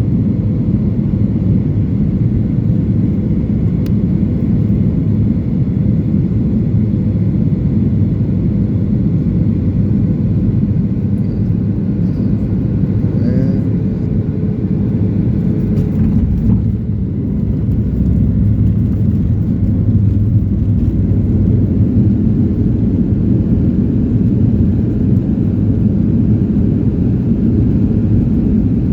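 Inside-the-cabin noise of a Boeing 737-900 on landing: a steady, heavy low rumble of its CFM56 engines and airflow. It dips briefly past the middle and then runs a little louder.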